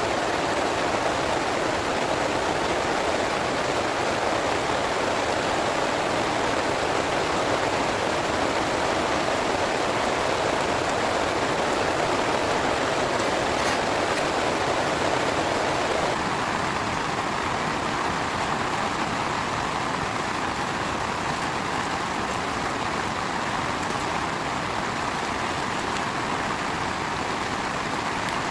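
Heavy rain falling steadily, a dense even hiss with no pauses. About sixteen seconds in it turns slightly quieter and thinner.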